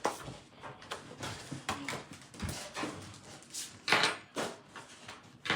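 Scattered light knocks and clicks of dishes and utensils being handled in a kitchen, with a brief louder noise about four seconds in.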